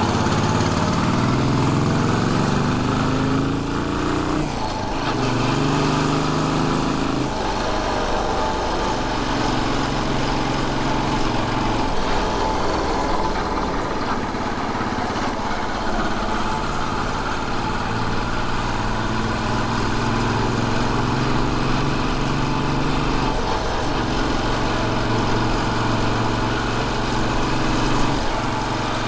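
Royal Enfield Bullet 500 single-cylinder motorcycle engine under way. Its note rises in pitch as the bike accelerates over the first few seconds, drops briefly around four to five seconds in as it changes gear, then settles into a steadier cruising note with small rises and falls.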